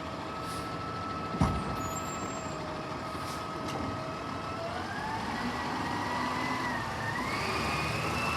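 Garbage truck's engine and hydraulic pump whining steadily, then rising in pitch in steps from about five seconds in as it revs to work the lift. A single sharp knock about a second and a half in.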